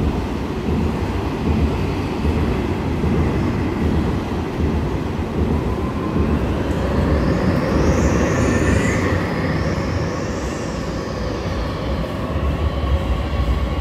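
Electric train running alongside a station platform: a steady heavy rumble of wheels on rail, with a high motor whine that rises and falls in pitch twice around the middle.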